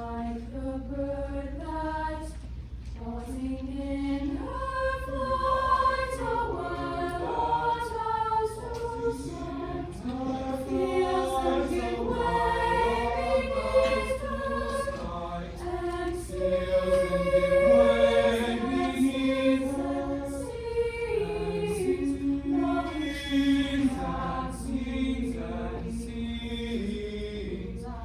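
Choir singing a piece in several-part harmony, swelling louder about two-thirds of the way through, over a steady low hum.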